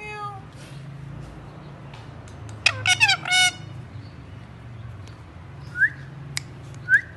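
Ring-necked parakeet calling: a quick run of loud squawky calls about two and a half to three and a half seconds in, then a couple of short upward-sweeping chirps near the end.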